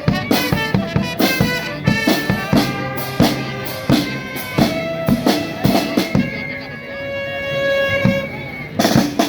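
Charanga street band playing: brass and reed instruments over a steady beat of drums with bass drum. Past the middle the drums drop out for about two seconds, leaving only held wind notes, then come back in near the end.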